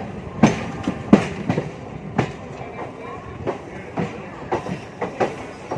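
MEMU train wheels clattering over rail joints: a steady running rumble with about a dozen sharp knocks at irregular spacing.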